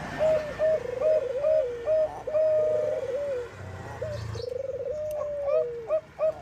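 Zebra dove (Bangkok-bred perkutut) cooing: quick runs of short staccato notes, about three a second, broken by rolling trilled coos that drop in pitch at the end.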